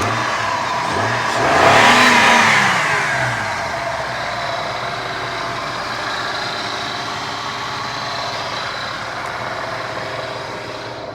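Acura car engine revved once about a second and a half in, its pitch rising and falling back, then idling steadily; it has just had a tune-up with new coils and plugs and runs smoothly. A single sharp knock at the very end.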